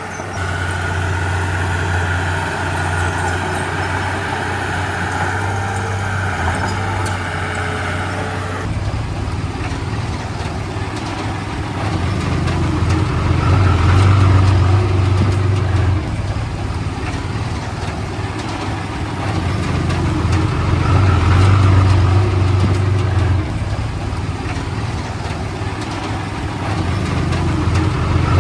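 Diesel engine of a Komatsu D31P crawler bulldozer running, its sound swelling and easing every several seconds as it takes load, with an abrupt change in tone about a third of the way in.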